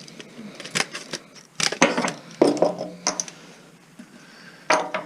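Metal parts and hand tools clinking and clanking while an old stereo amplifier is taken apart for scrap. There are about half a dozen sharp clicks and knocks, a few of them ringing briefly.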